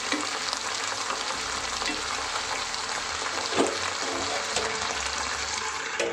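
Moringa (drumstick) leaves sizzling in hot oil in a non-stick pan as they are stirred with a wooden spatula: a steady frying hiss with a few soft scrapes of the spatula, the clearest about halfway through.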